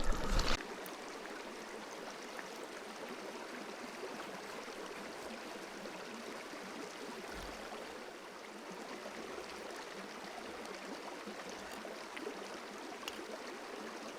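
Steady rush of flowing river water, even and unbroken, after a brief louder burst of noise in the first half second.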